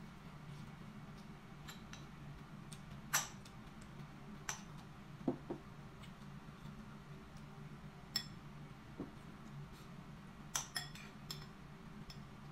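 Metal spoon clinking and scraping against a ceramic bowl while eating, in scattered single clinks, the loudest about three seconds in and a quick run of several near the end, over a steady low hum.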